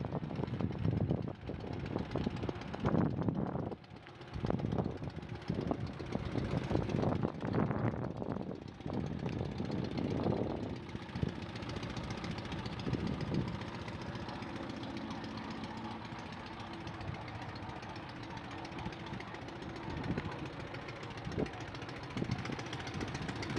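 1981 Cushman Truckster's two-cylinder, four-stroke air-cooled OMC engine running. For about the first ten seconds it is uneven, with louder surges, then it settles into a steady idle.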